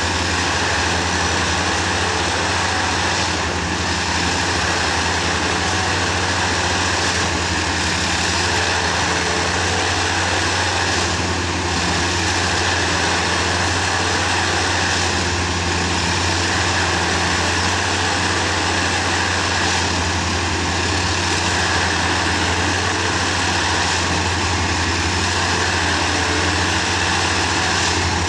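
Railway ballast tamping machine running, its heavy engine giving a loud, steady drone with a slight pulse about every four seconds as it works the track.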